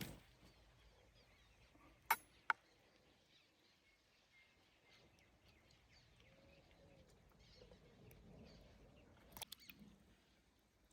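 Near silence: faint outdoor quiet with faint chirps, broken by two sharp clicks a moment apart about two seconds in and a short cluster of clicks near the end.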